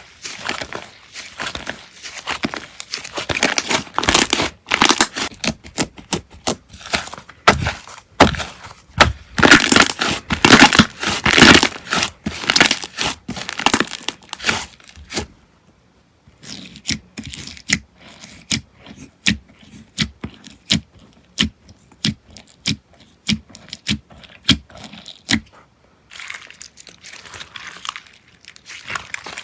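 Slime being squeezed and stretched by hand, giving dense crackling and popping for about the first half, then separate sharp pops a few times a second after a short pause, and softer crinkling near the end.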